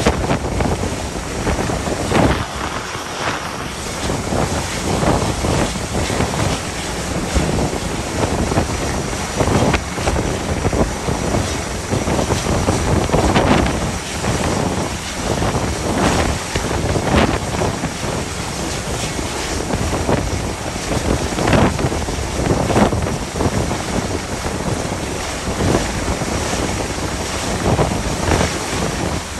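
Gale-force wind buffeting the microphone in irregular gusts over a steady rush of wind and sea.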